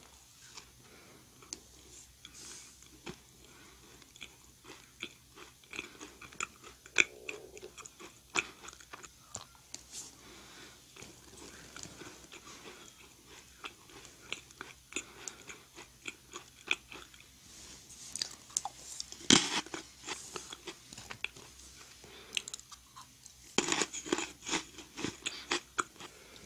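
Close-miked chewing of a macaron, a crisp almond-meringue cookie, bitten at the start: soft crunches and wet mouth clicks. A louder crunch comes a little past two-thirds of the way through, and a burst of crunching near the end.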